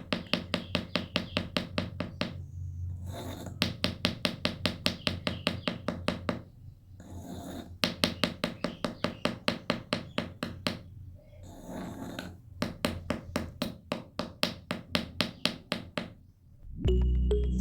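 Rapid, even clicking or tapping, about six strokes a second, in four runs of a few seconds each with short pauses between.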